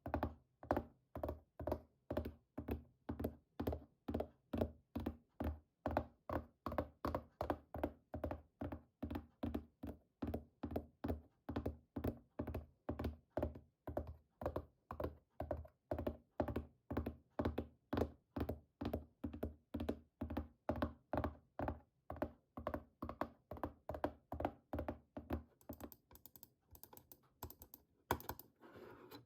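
Fingertip tapping on a hard object in a steady, even rhythm of about two to three dull thunks a second. Near the end it changes to lighter, quicker clicks, with one louder knock just before the close.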